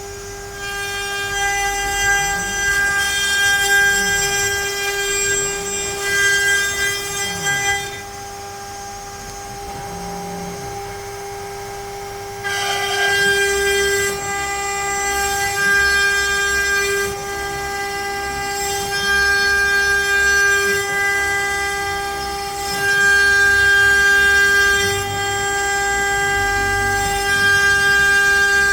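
CNC router spindle whining at a steady pitch while the bit mills letters into pine. The cutting noise comes in surges, drops away for a few seconds a little past the middle, then returns, with faint rising and falling motor tones underneath.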